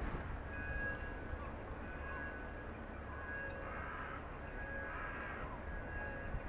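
Birds calling, with two harsh caws about four and five seconds in, over a steady low rumble of harbour background.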